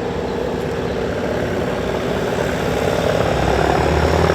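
Radial piston engine of a World War II Grumman fighter flying past, its sound growing steadily louder as the plane comes closer.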